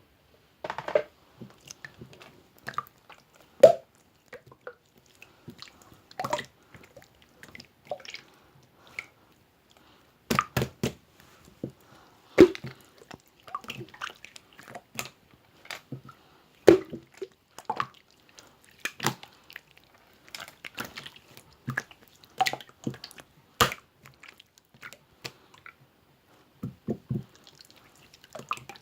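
Irregular short clicks and small knocks, unevenly spaced, some louder than others.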